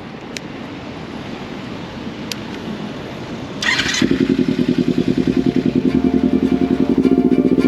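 Motorcycle engine catching about four seconds in and then running with a fast, even throb, after a stretch of low road and wind noise.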